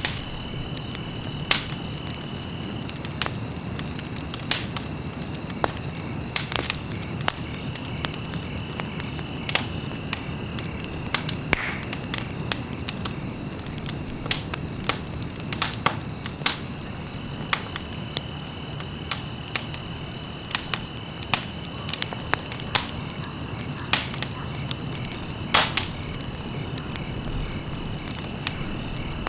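Wood fire in a fireplace crackling: irregular sharp pops and snaps over a steady hiss, with one louder pop near the end. A faint high steady whine comes and goes beneath it.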